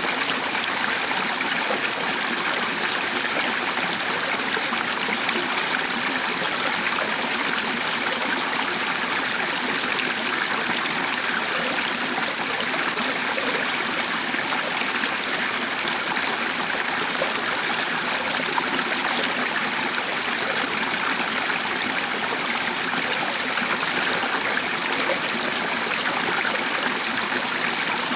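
Steady rush of running water, as from a flowing stream, even and unbroken throughout.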